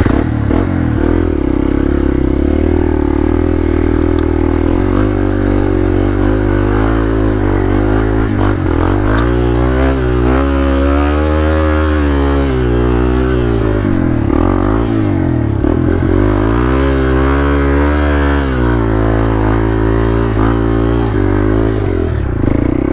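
Hero Xpulse 200 motorcycle's single-cylinder engine running under load off-road. It revs up and back down in two long swells about nine and fifteen seconds in, and holds steadier between them.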